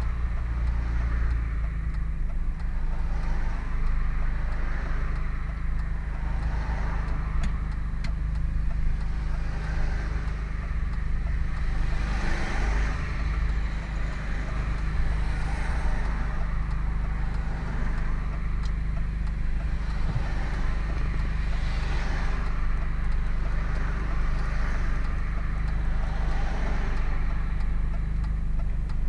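Hartge MINI with a Hayward & Scott exhaust driving at a steady pace: a constant low engine and exhaust drone with road noise over it.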